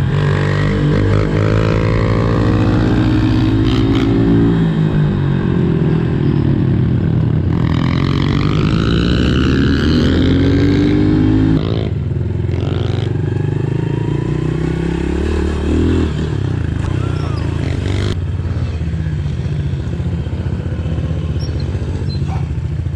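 Small pit bike engines running and revving as they ride, their pitch rising and falling with the throttle. More than one engine can be heard at once.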